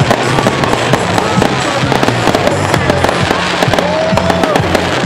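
Aerial fireworks going off in quick succession, a dense run of sharp bangs and crackles, over music with a steady, stepping bass line.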